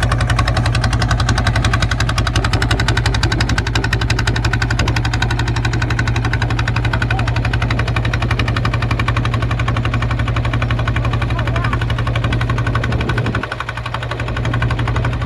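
Kubota ZT 155 single-cylinder diesel engine running steadily with a fast, even beat and a deep hum. About 13 seconds in, the deep hum drops away and the engine goes quieter.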